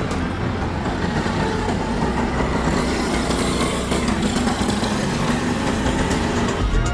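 Honda 125 motorcycle engine running steadily.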